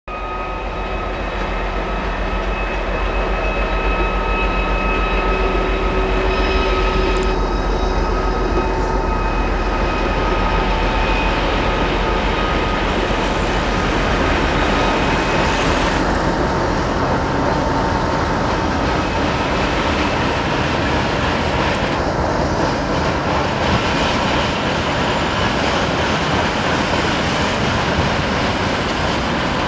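Train running on the rails close by: a steady rolling rumble that builds over the first few seconds and then holds, with thin steady whines above it.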